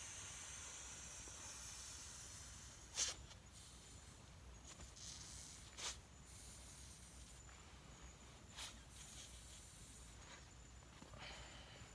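Quiet outdoor ambience with a faint high hiss, broken by three short sharp clicks or knocks about three seconds apart.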